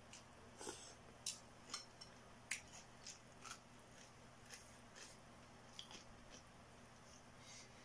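Close mouth sounds of someone chewing a mouthful of noodles: faint, irregular wet clicks and smacks, one or two a second.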